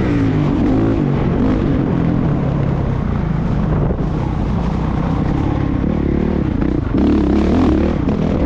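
Motocross bike engine revving up and down again and again, the pitch rising and falling with each twist of the throttle, with a steady low rumble underneath.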